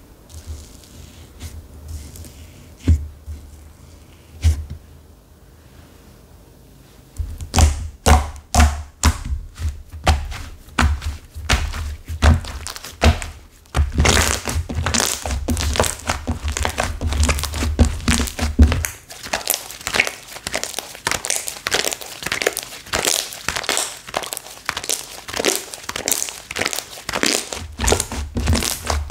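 Slime with hardened clay mixed through it being squeezed and pressed by hand, giving crunchy crackling and popping clicks. After two lone taps it starts about seven seconds in and turns into a near-continuous crackle about halfway through.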